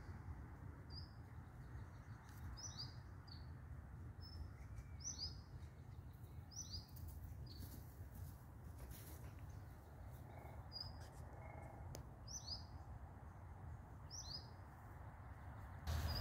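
A small bird chirping: short, high, falling chirps repeated every second or so, often in pairs, over a low steady rumble.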